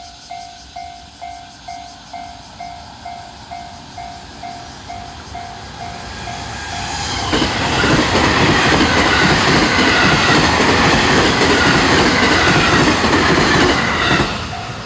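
A JR West 223 series electric train passing close by, a loud rush of wheels on rail joints that builds from about 6 s and cuts in sharply about halfway through, then dies away just before the end. Before it, a ringing bell strikes about two and a half times a second, typical of a Japanese level-crossing warning bell. The bell is heard again as the train clears.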